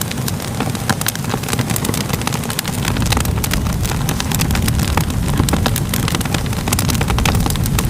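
Crackling fire: a steady low roar with frequent sharp pops and crackles. The low roar grows a little louder about three seconds in.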